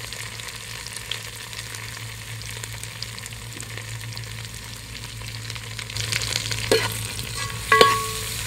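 Onions, green chillies and herbs sizzling in hot oil in a large metal pot. In the last couple of seconds a metal slotted spoon stirs the mix, with a few sharp clanks against the pot, the last of them ringing.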